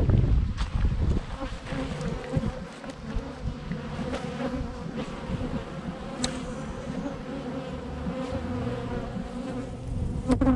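Swarm of honeybees buzzing in a steady hum around open hives. A loud low rumbling bump comes at the start, and a few sharp clicks stand out about six seconds in and near the end.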